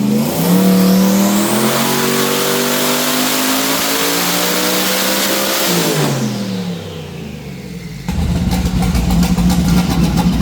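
Twin-turbo 427 LS V8 making a pull on a hub dyno: it comes in suddenly and climbs steadily in pitch through the revs for about six seconds. Then it lets off and the revs fall away, and about eight seconds in it settles into a loud, uneven idle.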